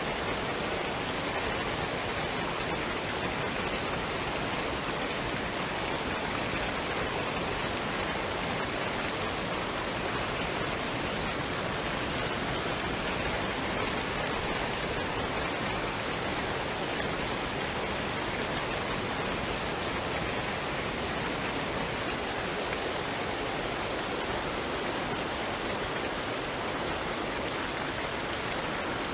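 Waterfall and stream water rushing in a steady, even roar that does not change.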